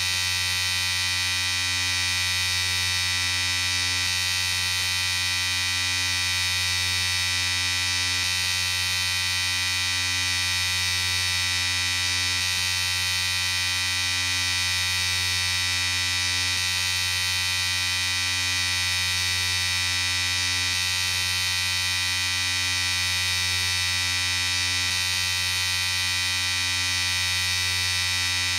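Electric shaver running continuously, a steady buzz with an even, unchanging pitch.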